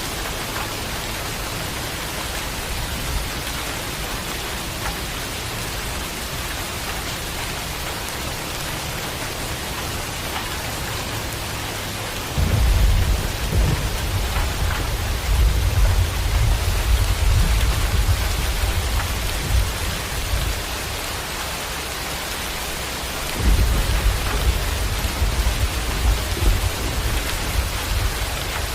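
Steady heavy rain with thunder: a long low rumble starts about halfway through, and a second one follows near the end.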